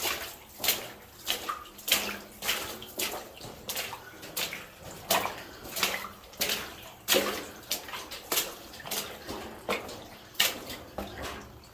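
Footsteps wading through shallow water in a flooded mine tunnel: a steady run of splashes, about two steps a second.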